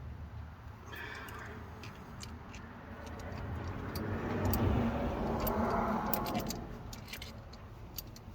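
Hand tools clinking against metal as nuts are run down the carburetor studs, with scattered light clicks. In the middle, a louder rush of noise rises and falls over a few seconds.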